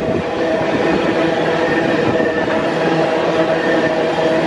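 Empty ore train rolling past on the main line: a steady rolling rumble with several ringing tones held throughout.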